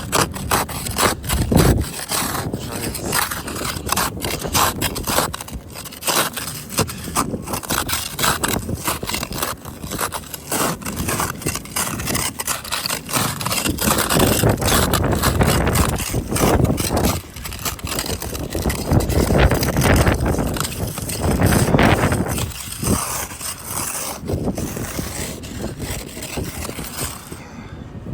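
Repeated scraping of ice and crusted snow off a car, in quick rough strokes, with gusts of wind buffeting the microphone.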